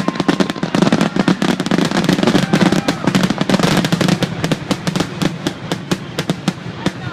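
Fireworks crackling: a dense, rapid string of sharp pops and bangs that thins out near the end.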